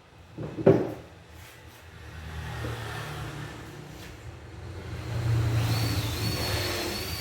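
A sharp knock, then a motor vehicle's engine rumble that swells to its loudest about five seconds in and eases off, like a car driving past.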